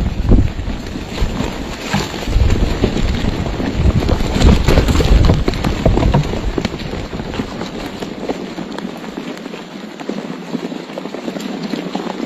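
Wind buffeting the microphone in uneven gusts, heaviest in the first half and easing after about six seconds.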